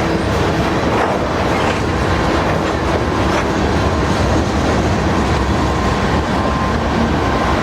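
Loaded crude oil tank cars of a freight train rolling past, a steady heavy rumble with wheels clattering over the rail joints and a faint thin whine in the second half.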